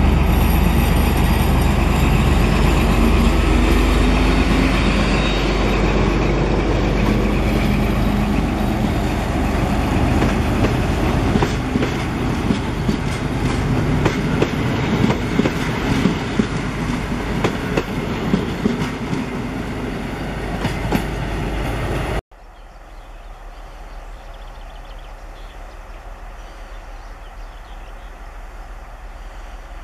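SU46 diesel locomotive running as it hauls a train of passenger coaches past, with a heavy low rumble, then the clickety-clack of the coaches' wheels over the rail joints. About two-thirds of the way through the sound cuts off abruptly, and a much quieter steady background follows.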